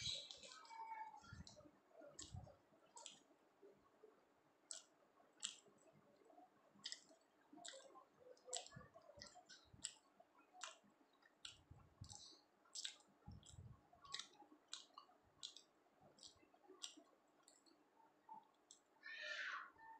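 Close-up mouth sounds of a person chewing soft flatbread and chickpea dal: many small wet clicks and smacks of the lips and tongue, with a few low thumps and a longer smacking sound near the end.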